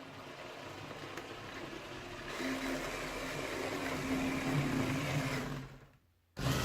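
Small electric motor running with a steady whir, getting louder about two seconds in and stopping abruptly near the end.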